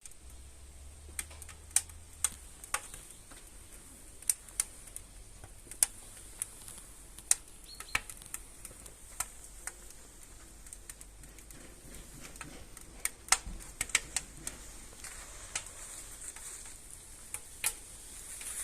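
Firewood crackling as it burns in a wood-burning stove's firebox: irregular sharp snaps and pops, one or two a second, over a faint hiss.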